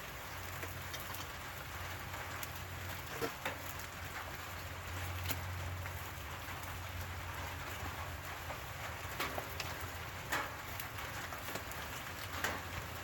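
Rain falling steadily, a continuous hiss with scattered sharp ticks of drops landing close by.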